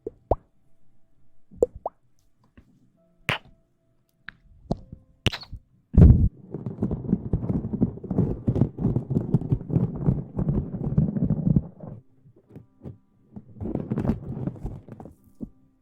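Close-miked ASMR rustling and rubbing: a few scattered taps and clicks, then about six seconds of dense scratchy rubbing, and a shorter burst near the end.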